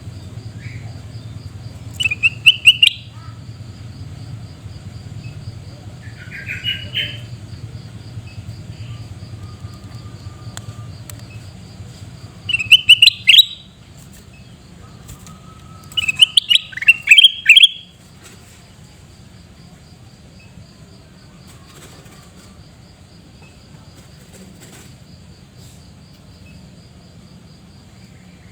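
Sooty-headed bulbul (kutilang emas) giving loud, harsh bursts of quick chattering call notes in four bouts, the third and fourth the loudest, separated by several seconds.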